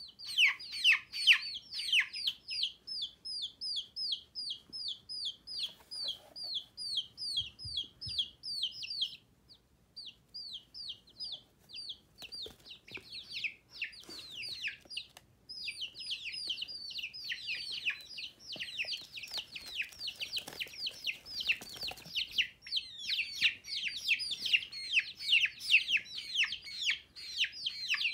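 Baby chicks peeping: a rapid run of short, high, falling cheeps, several a second. It nearly stops about ten seconds in, then grows denser with several chicks peeping over one another in the second half.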